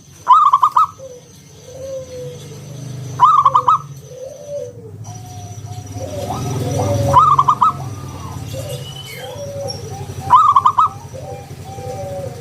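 Zebra dove (perkutut) singing its rapid, rolling coo phrase four times, about every three seconds, over quieter wavering calls of other birds and a low hum.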